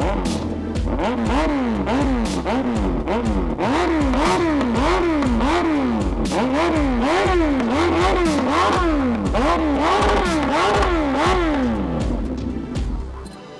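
A motorcycle engine revved again and again, its pitch climbing and falling back about once every second, with the steady thump of music's bass underneath. The revving dies away just before the end.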